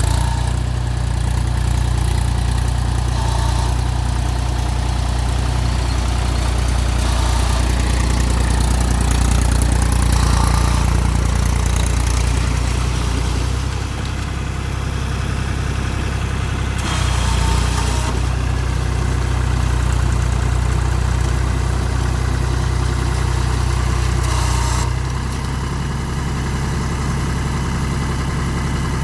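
Mahindra 275 TU tractor's diesel engine running steadily under a steady throttle. Its low note eases about halfway through and again near the end, with short bursts of noisier sound in between.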